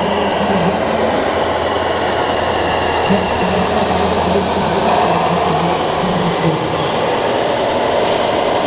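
Electric motors, gearboxes and hydraulic pumps of 1/14-scale RC construction machines running steadily, with a wavering hum under a dense mechanical whirr.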